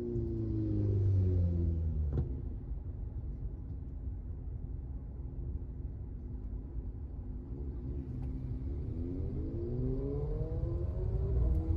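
Car engine dropping in revs as the car slows, running low and steady over road rumble, then rising in pitch as it accelerates again from about eight seconds in. A single sharp click about two seconds in.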